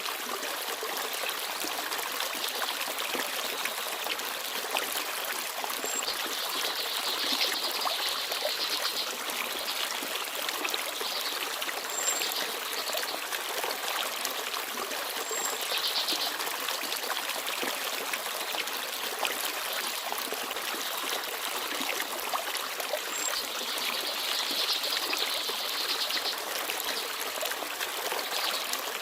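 Forest stream babbling and trickling steadily over stones, with small birds chirping faintly now and then above the water.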